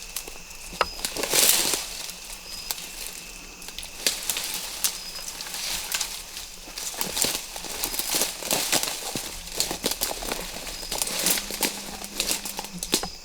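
Irregular rustling and crackling, like dry leaves and brush being stepped through or moved about, with no steady rhythm.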